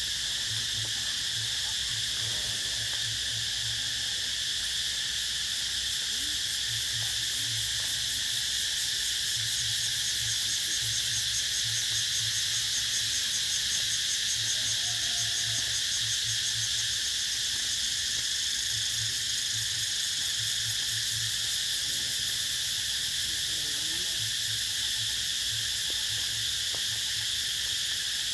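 A steady, unbroken chorus of insects shrilling in the trees, with a faint, intermittent low hum underneath.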